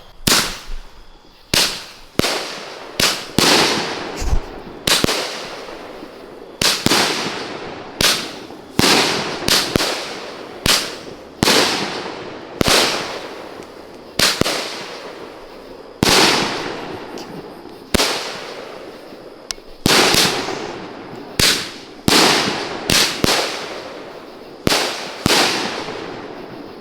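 Consumer multi-shot fireworks cake (Gazoo) firing shot after shot. It gives loud, sharp bangs about one every second or so, each trailing off in an echoing rumble.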